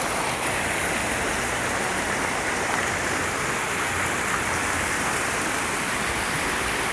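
Rain falling steadily, a dense even hiss with no break.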